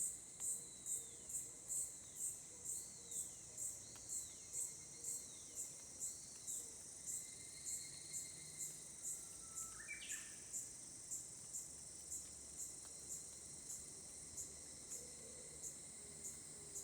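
An insect chirping steadily, high-pitched, about twice a second. A bird gives a short run of falling whistled notes a few seconds in and a single rising call about ten seconds in.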